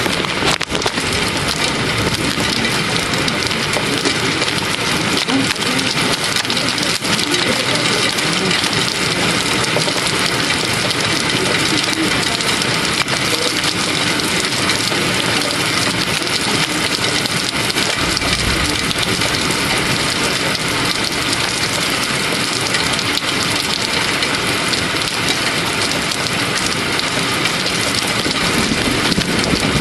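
Heavy rain falling steadily, a dense unbroken hiss. A low rumble comes in briefly a little past the middle.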